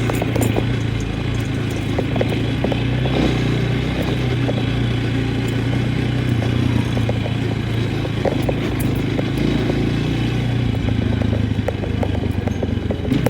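A vehicle engine running steadily under load, with scattered knocks and clatter over the drone.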